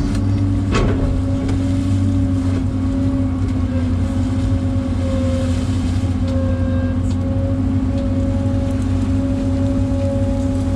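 Excavator's diesel engine running steadily under load with a constant hydraulic whine, and a single sharp knock just under a second in.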